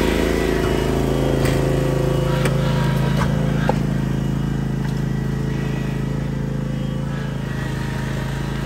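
Vehicle engine running steadily, with a few light clicks in the first few seconds.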